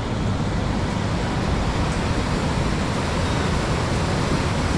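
Steady roar of the Skookumchuck Narrows tidal rapids running at peak tide, pushing a huge volume of water, heaviest in the low end.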